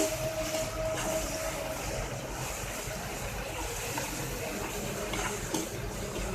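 Spiced onion-and-vegetable masala sizzling steadily in a frying pan as it is stirred, with a few light knocks of the spoon against the pan.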